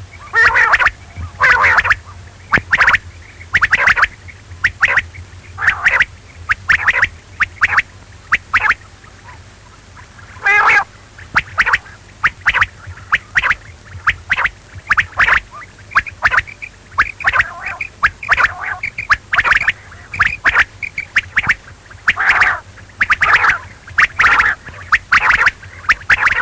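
Quail calling over and over: short, harsh calls, about one to two a second, with a steady low hum underneath.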